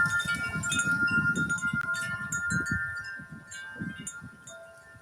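Several large tubular wind chimes ringing together in gusty wind, long overlapping tones with fresh strikes, under a low rumble of wind; the ringing dies down over the last couple of seconds.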